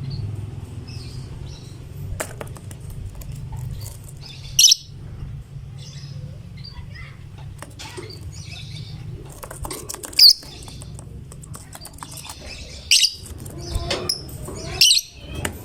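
Lovebird chirping, with four sharp, loud shrill calls a few seconds apart and softer chirps between them, over a low steady hum.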